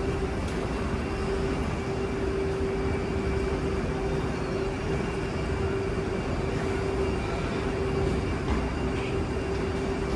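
Airport baggage claim carousel running: a steady low rumble with a constant hum.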